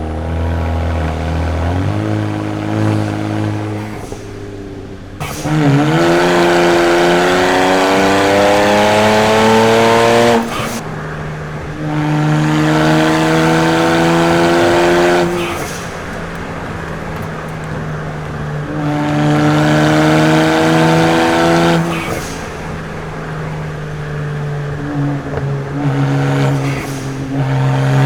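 BMW 335i's tuned N54 twin-turbo inline-six pulling hard several times, its pitch climbing steadily through each pull and then dropping suddenly at the shift or lift-off, with steadier, quieter running between the pulls.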